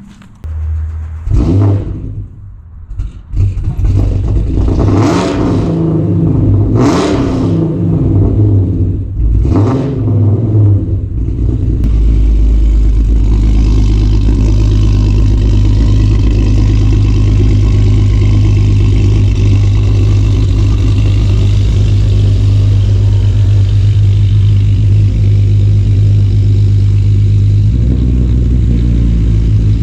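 2008 Ford Mustang's 4.0 V6, with long-tube headers, no catalytic converters, an X-pipe and Cherry Bomb mufflers, starting cold after sitting all winter. It catches about a second in, is revved briefly three times, then settles into a steady, loud cold idle.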